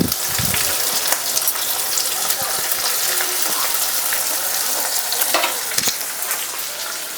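Sliced onions and capsicum sizzling in hot oil in a kadai, a steady hiss with short clicks from stirring. There is a low knock right at the start and another about six seconds in.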